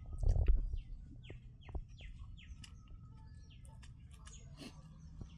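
Small birds chirping, a string of short downward-sliding chirps several times a second. A loud low thump comes just at the start.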